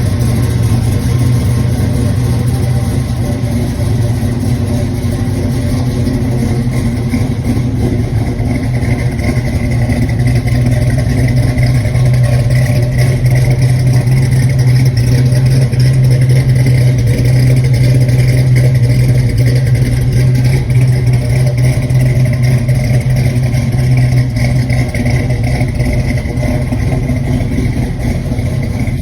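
1969 Camaro Z/28 V8 with a big aftermarket camshaft idling through Flowmaster mufflers, with the choppy, lopey idle of a long-duration cam. It runs steadily and gets a little louder in the middle.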